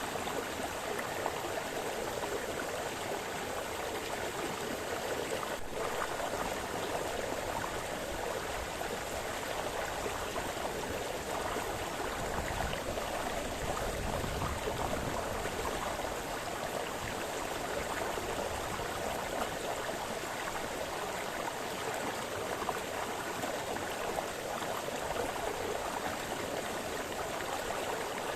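A small brook splashing and burbling in a steady, even rush of water.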